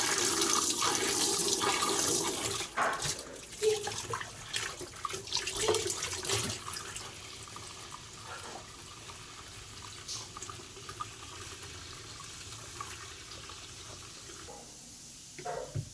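Running water, loud for the first two and a half seconds and then cut off, followed by scattered knocks and clatter that thin out.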